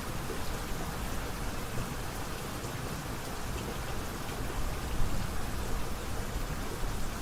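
Steady rain falling, a continuous patter of drops on a surface, with a slightly louder spatter about five seconds in.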